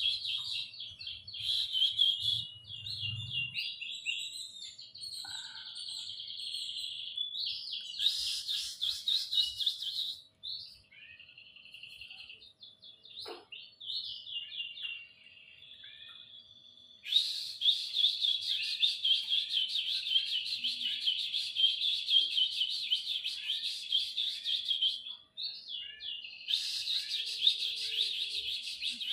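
Domestic canary singing long, fast trilling song phrases. About a third of the way in the song drops to a quieter stretch of short separate calls, then full, loud song resumes.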